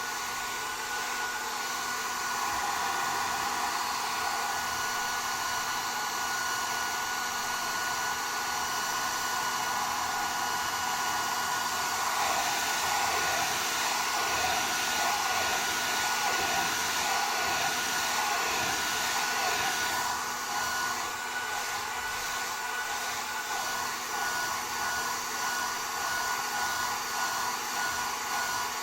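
Hand-held hair dryers blowing hot air: a steady rush of air with a constant motor whine, swelling a little as the dryers move around the hair.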